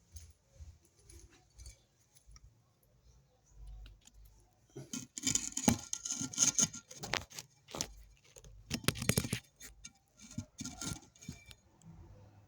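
Parts of a new electric fan being handled and fitted together during assembly: scattered clicks and clattering, with two busy bursts of rattling about five seconds in and again about nine seconds in.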